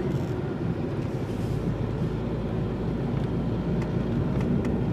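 Steady road and engine rumble of a car driving along, heard from inside the cabin.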